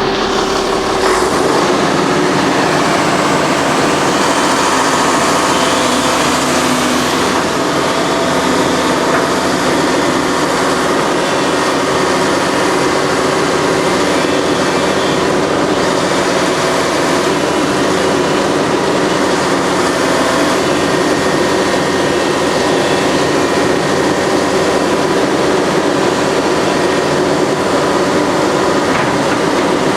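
1993 Kato excavator with its Mitsubishi diesel engine running steadily, a continuous machine drone with several held tones.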